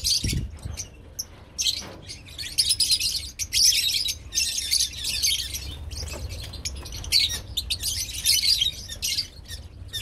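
Lovebirds chattering in a group: a dense run of shrill, harsh chirps in clusters, one after another, with hardly a pause.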